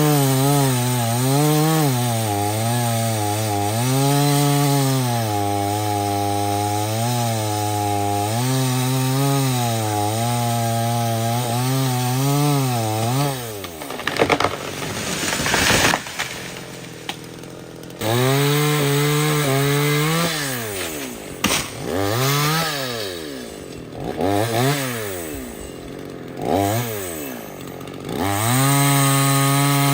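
Two-stroke chainsaw cutting wood, its engine pitch sagging and recovering under load for about thirteen seconds. After a short break the saw is revved up and down several times, then held at high speed near the end.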